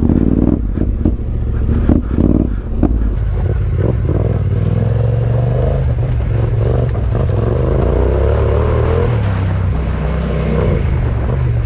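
Yamaha Ténéré 700's parallel-twin engine running as the motorcycle is ridden over rough ground, with several knocks and clatters in the first three seconds.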